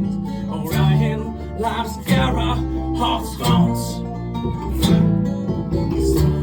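Live acoustic folk music: an acoustic guitar strummed in a steady rhythm over sustained low notes, an instrumental stretch between vocal lines.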